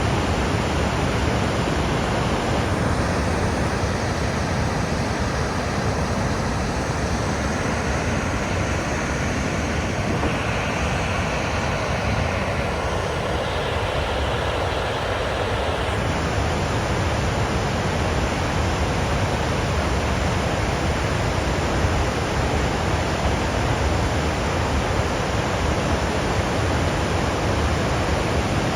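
Water pouring through a dam's open spillway, the reservoir behind it full: a loud, steady rushing roar.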